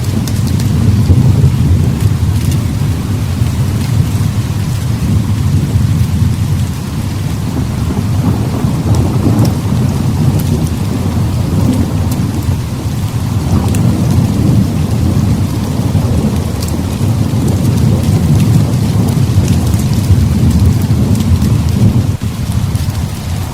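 Heavy rain pouring steadily, with deep rolling thunder that swells and fades several times.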